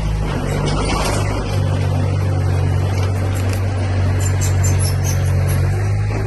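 Diesel engine of heavy earthmoving machinery running steadily, its note shifting slightly about a second and a half in, with faint clinks over it.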